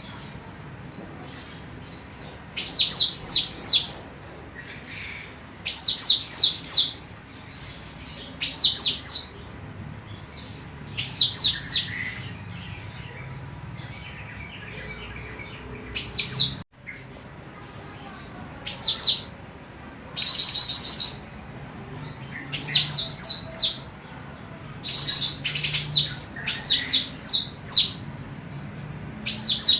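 Female golden cucak rante (cucak rante emas) singing: short, loud bursts of three to five quick, high, downward-slurred notes, repeated about every two to three seconds.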